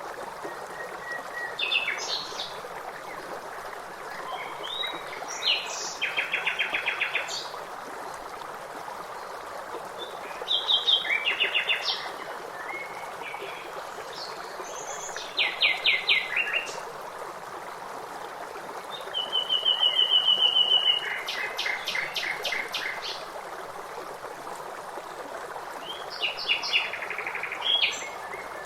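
A songbird singing a short phrase every few seconds, each a few sharp notes ending in a fast trill, over the steady rush of running stream water.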